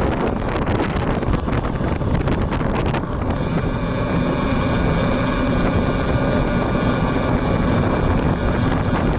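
Strong wind buffeting the action camera's built-in microphone, rushing and rumbling. About three seconds in, a steady droning hum with several pitched tones joins it and holds until near the end.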